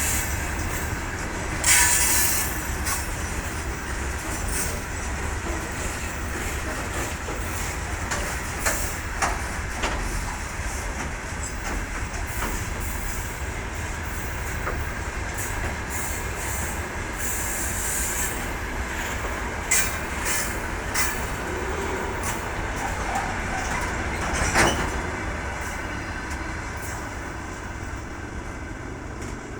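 Freight train rolling past behind a 2ES5K electric locomotive: the wagons' wheels clack over rail joints, with a few brief high squeals. The sound fades near the end.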